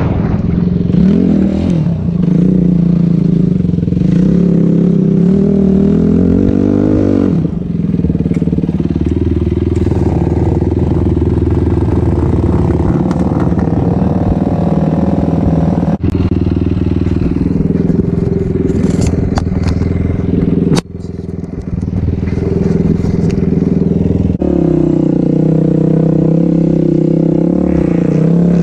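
Dirt bike engine running under load, its pitch rising and falling as it is revved and shifted, with a sharp click and a brief drop about twenty-one seconds in.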